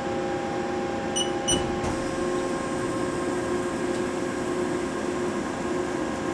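Steady electrical and mechanical hum of a Haas SL-20 CNC lathe standing powered up, with two short beeps from its control panel a little over a second in and a click just before two seconds, where one of the hum's tones drops out.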